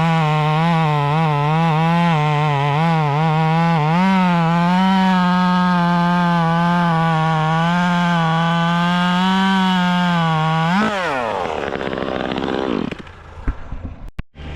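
Gas chainsaw running near full throttle, its pitch wavering as it cuts wood. About eleven seconds in the throttle is released and the engine winds down in a falling glide, followed by a few knocks.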